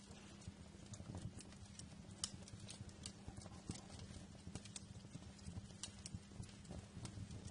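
Fireplace fire crackling: irregular sharp pops and snaps, several a second, over a low steady rumble of the flames.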